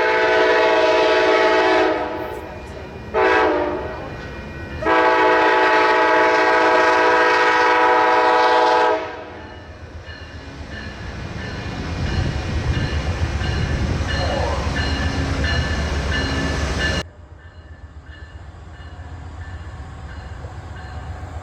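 Locomotive air horn sounding a chord of several tones: a blast of about two seconds, a short blast, then a long blast of about four seconds. The low rumble of the passing train follows and builds, cuts off abruptly about 17 seconds in, then comes back quieter.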